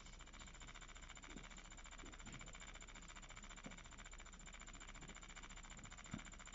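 Faint steady whir of a 3D pen's filament-feed motor while it extrudes plastic, with a couple of soft taps near the middle and near the end.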